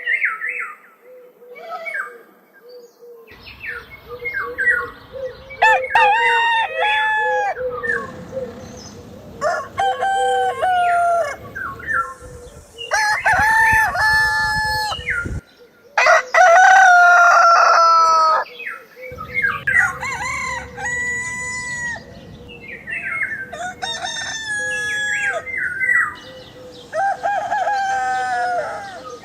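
Roosters crowing cock-a-doodle-doo, about seven crows one after another, each lasting one to two seconds.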